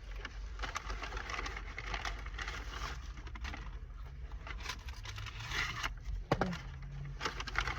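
Takeout food being handled while eating: irregular crinkling, scraping and small clicks of packaging, over a steady low hum.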